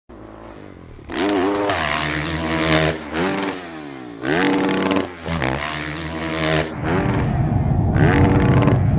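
Motocross dirt bike engines revving hard, pitch climbing and dropping again and again as the throttle is opened and shut, with sudden jumps in the sound where one clip cuts to the next.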